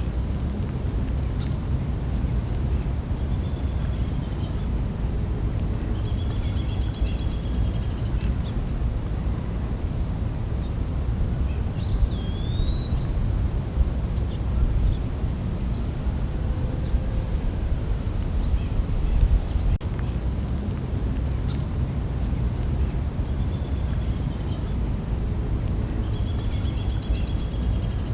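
Night forest ambience of insects and birds: a steady high insect drone with cricket-like chirps pulsing several times a second, broken now and then by short whistled bird calls. A low rumble of background noise runs underneath.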